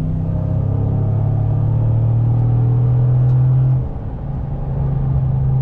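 L83 5.3-litre V8 of a 2014 GMC pickup, breathing through a Corsa Sport cat-back exhaust, heard from inside the cab. It pulls at wide-open throttle with a deep, steady engine note, and the sound drops off sharply about four seconds in.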